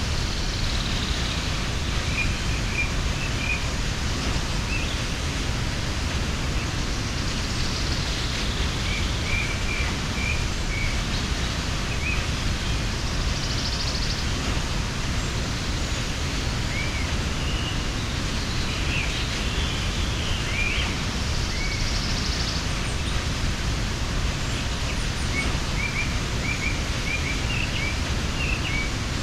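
Steady rushing of a mountain waterfall, with small birds chirping on and off over it.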